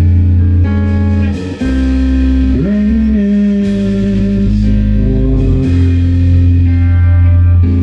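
Rock band playing a passage of guitar chords over a heavy low end, with a note sliding up about two and a half seconds in.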